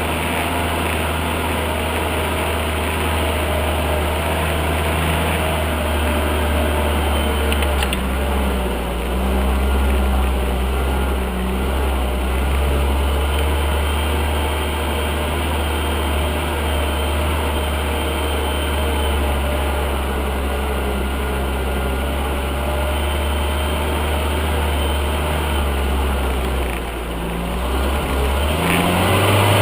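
UAZ off-road vehicle's engine running steadily at low revs, pulling through mud, with the revs rising briefly near the end.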